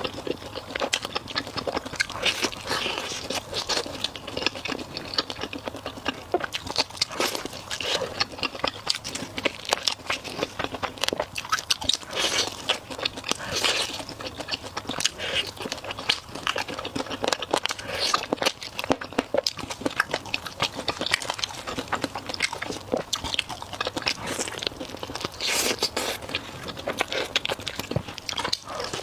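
A person biting and chewing food close to the microphone, with wet chewing and irregular crunching clicks throughout.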